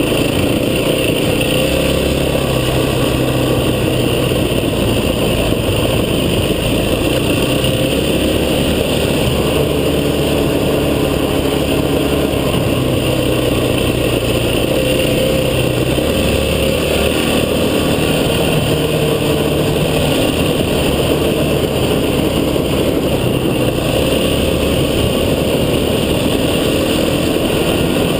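Vehicle engine running under way on an off-road track, its pitch shifting up and down with the throttle and steady road and wind noise beneath.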